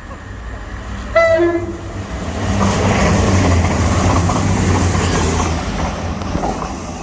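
A train sounds a short two-tone horn, a high note then a low one, about a second in. It then passes close by with a loud rush of wheel and rail noise that builds about two seconds in and fades near the end.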